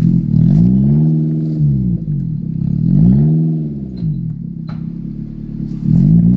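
Car engine revved up and let back down about three times, its pitch rising and falling with each rev.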